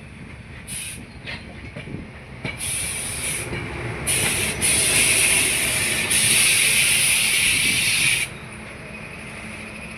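Passenger train running, heard at an open window: a low rolling rumble under a rushing hiss. The hiss comes and goes, is loudest from about four to eight seconds in, then drops off suddenly.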